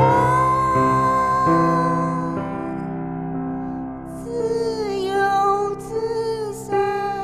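A gentle, lullaby-like song with piano or keyboard backing. A female voice holds a long note that slides upward at the start, and wordless wavering vocal lines come in about four seconds in.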